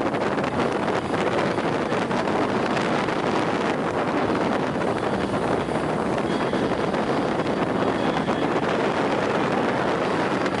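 Motorboat under way at a steady speed, its engine and the rush of water and wind blending into one even noise, with wind buffeting the microphone.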